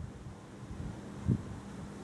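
Wind buffeting the microphone in a thunderstorm: a low rumbling haze with one short low thump of a gust about a second and a half in.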